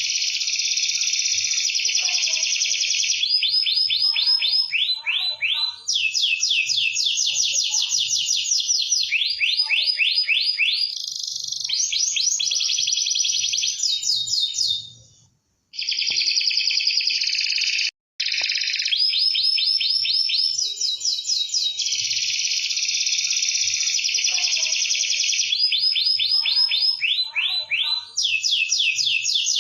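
Domestic canary singing continuously in long, very fast high-pitched trills and rolling phrases, one after another. The song cuts out abruptly twice about halfway through, for about a second and then for a moment.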